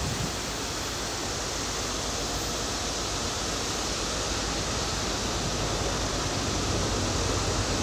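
Steady rushing noise that slowly grows louder, with a low rumble strengthening toward the end: a distant approaching freight train with a GE C40-8W diesel locomotive in the lead.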